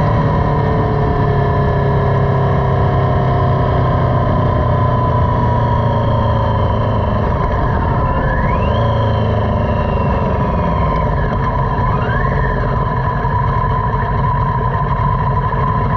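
Motorcycle engine running while riding, under heavy wind rush over the microphone; the engine note sinks slowly over the first several seconds as the rider eases off. Two brief rising whistle-like tones come about halfway through.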